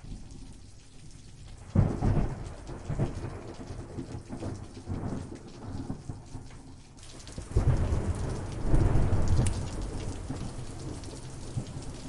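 Thunderstorm: steady rain falling, with thunder breaking in suddenly about two seconds in and rumbling on, then a second, louder peal about halfway through that rolls for a few seconds and fades.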